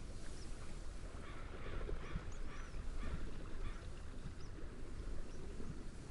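Seagulls calling with rough, honking cries for a couple of seconds, with a few short high bird chirps. Behind them is a steady wind and gentle wave rumble.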